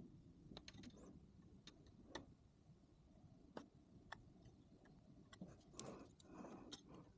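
Near silence with a dozen or so faint, irregular clicks and light taps from tools and small parts being handled.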